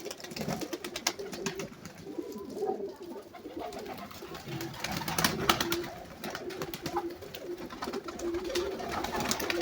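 Uzbek playing pigeons cooing steadily in a low voice, with scattered sharp clicks and taps from the birds moving about.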